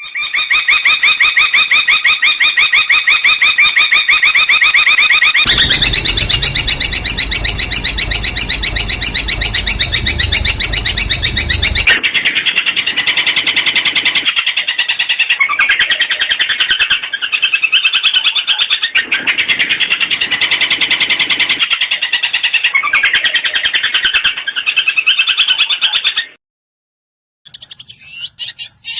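Long-tailed shrike (cendet) singing fast rapid-fire runs of repeated notes in long unbroken phrases, the 'tembakan' style valued in a contest bird. There is a harsher, noisier stretch in the first half, and the song stops suddenly near the end.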